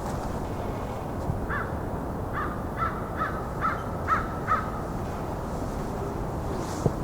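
American crow cawing: a series of six caws about half a second apart, a little after the start.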